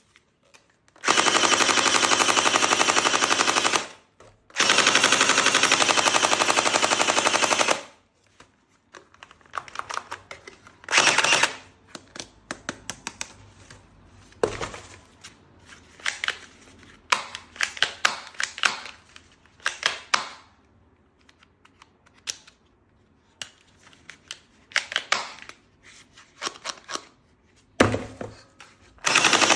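Toy machine gun firing: two long bursts of rapid rattling fire, then a run of short, broken bursts and single clicks, and one more long burst near the end.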